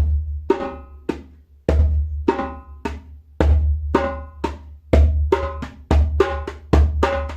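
Djembe played by hand in a repeating three-stroke pattern of bass, high and medium tones: a deep bass stroke in the centre of the skin, then two ringing strokes with the fingers near the rim, about two strokes a second.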